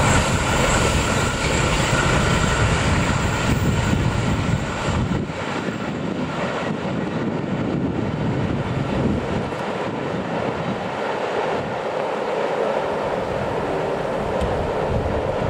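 Passenger train coaches rolling away along the track: a steady rumble and wheel-on-rail noise. The low rumble drops off about five seconds in, as the tail of the train moves away.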